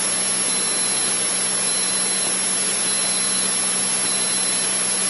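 Cessna 152's four-cylinder Lycoming engine and propeller droning steadily in the cockpit at reduced approach power of about 2000 rpm, heard as an even hiss with a low hum underneath.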